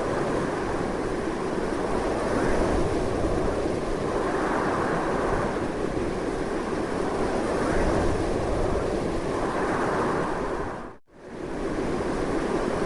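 Strong wind blowing steadily, swelling and easing in gusts. About eleven seconds in it fades out sharply for a moment and then comes straight back.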